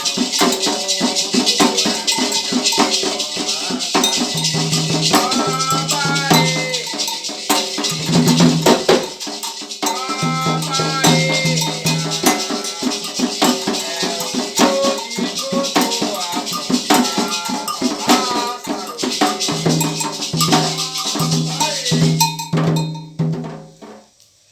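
Candomblé ritual music: voices singing over a rattle shaken in a quick steady rhythm, with drums. The music stops abruptly about a second before the end.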